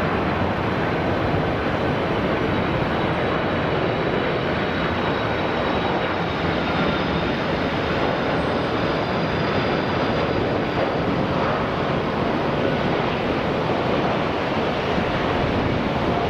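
Jet airliner engines: a loud, steady roar with a faint high whine that drifts slightly lower partway through.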